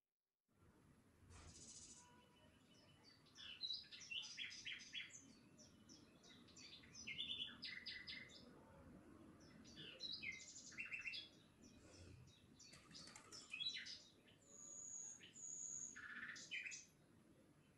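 Small birds chirping, with many short, quick chirps and trills over a faint low outdoor background. It starts about half a second in.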